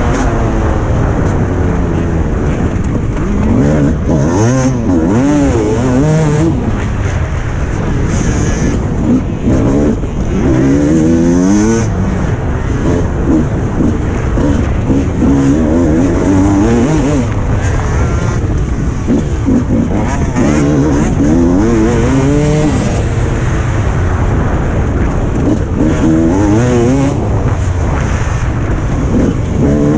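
Suzuki RM 300cc two-stroke motocross bike engine, heard close up as it is ridden hard, its pitch rising under throttle and falling off again over and over as the rider works through the gears.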